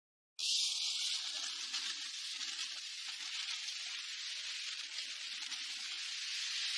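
Steady high hiss of a storm's rain and wind, which starts abruptly as the clip begins.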